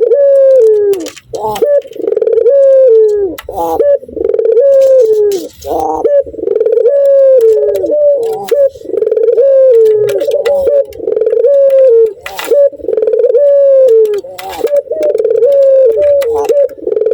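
Male ringed turtle dove (puter) in breeding condition repeating its 'laughing' coo. It gives a falling, stepped note about every second and a half, with short sharp notes in between.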